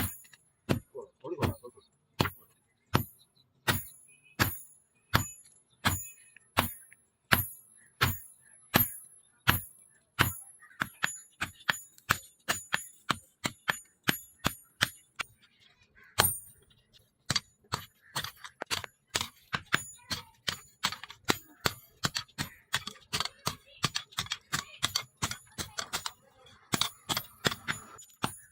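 Hammer blows on leaf-spring steel over an anvil, each strike ringing sharply. The blows come at a steady pace, about one and a half a second, then quicken to a faster, denser hammering about halfway through.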